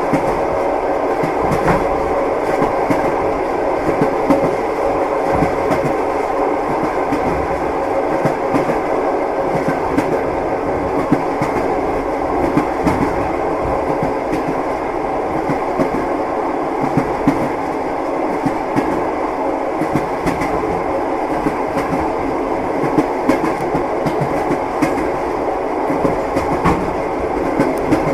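Train wheels clattering over the rails as a railway carriage rolls along: a steady rolling rumble with frequent irregular clicks and knocks.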